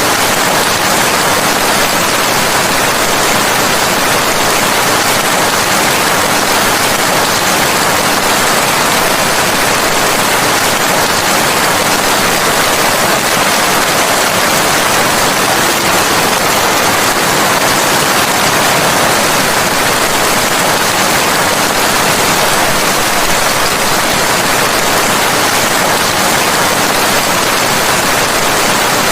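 Steady heavy rain: a dense, even hiss that does not change throughout.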